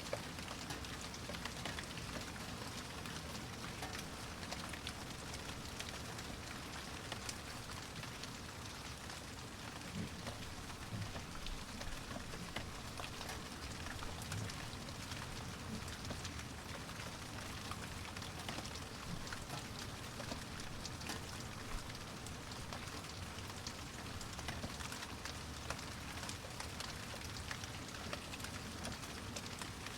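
Steady rain falling, with an even hiss and many small drop ticks throughout.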